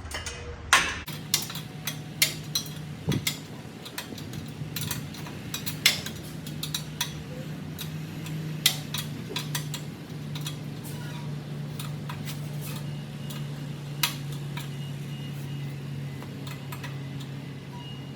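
Metal hand tools and nuts clinking and clicking, irregular sharp clinks that thin out after about ten seconds, over a steady low hum that starts about a second in.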